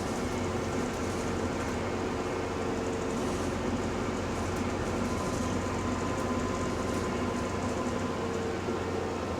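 Cabin noise of a moving diesel bus: a steady drivetrain and road rumble with a faint whine from the differential. A higher whining tone comes in about halfway through.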